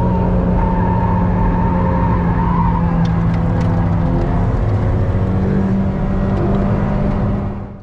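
Ferrari 488 Pista's twin-turbo V8 heard from inside the cabin, running at steady revs along the track. The engine note changes about four and a half seconds in, and the sound fades out at the very end.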